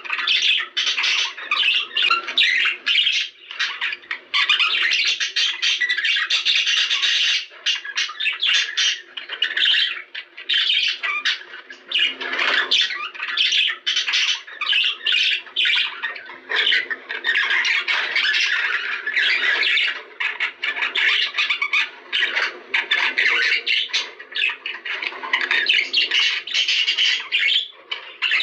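Budgerigars chattering and squawking without pause: a dense run of quick, high, scratchy calls and warbles.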